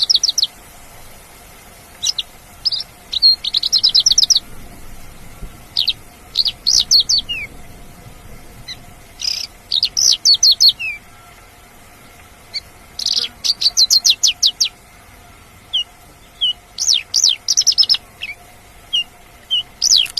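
Wild Javan bush lark (branjangan) singing: short phrases of quick, repeated high chirps, each lasting up to about a second and a half, with pauses between them.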